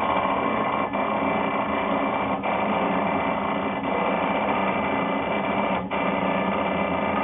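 Automatic brake-disc balancing machine running, a loud steady mechanical whine made of several steady tones, with a few brief dips; it starts and cuts off abruptly.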